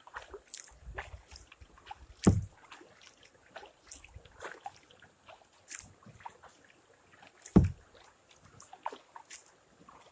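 Kayak paddling: the paddle dipping and splashing, with scattered drips off the blade and two louder low thumps, about two seconds in and again about seven and a half seconds in.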